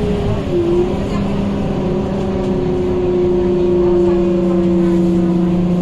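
Scania K230UB bus running, with a loud whine from its radiator cooling fan over the engine hum. The whine dips in pitch about half a second in and then sinks slowly.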